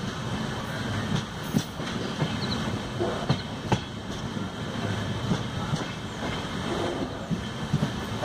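Mandovi Express passenger coaches running on the rails, heard from inside through an open window: a steady rumble of wheels on track, broken by several sharp, irregularly spaced wheel clicks.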